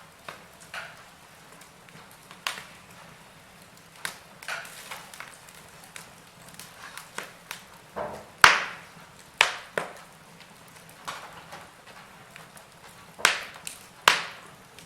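Wood fire in a fireplace crackling: irregular sharp pops and snaps over a faint steady hiss, with the loudest pop about halfway through and two more strong ones near the end.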